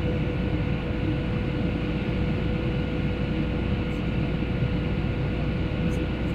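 Steady jet engine and airflow noise inside an airliner cabin in flight, with a faint steady hum running through it.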